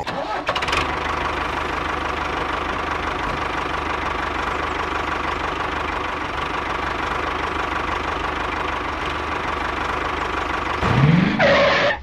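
Steady engine-like running sound of a toy tractor hauling loaded trolleys, at an even level throughout, with a short rising sweep about a second before the end.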